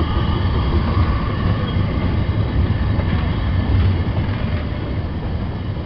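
Freight train of hopper wagons and a brake van rolling past close by behind a small steam saddle-tank locomotive: a steady low rumble of wheels on the rails, easing slightly near the end.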